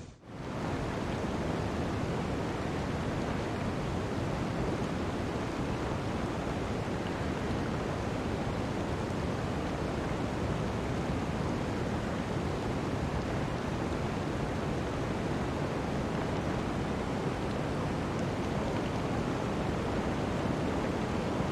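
Steady, even rushing noise with no breaks or rhythm, starting abruptly at the outset.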